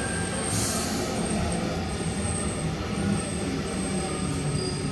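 Double-deck Sydney Trains electric train moving along the platform: a steady rumble of wheels on rail, with a faint high whine that comes and goes and a short hiss about half a second in.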